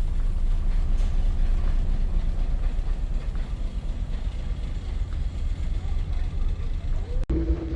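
Steady low rumble of a passenger ferry under way, heard on board. Near the end it cuts off abruptly and a different steady hum with a held tone takes over.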